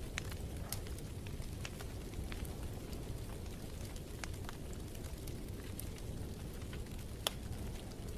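Wood fire crackling in a fireplace: a steady low rumble with scattered sharp pops, one louder pop near the end.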